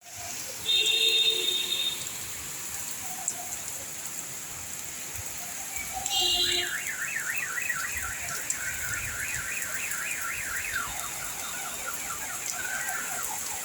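An electronic alarm: two short beeps, then a warbling tone that sweeps up and down about three to four times a second and trails off near the end, over a steady hiss of rain.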